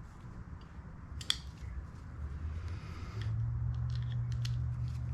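Small clicks and scrapes of hand tools and small metal parts being handled, with one sharp click about a second in. A low steady hum comes in about three seconds in.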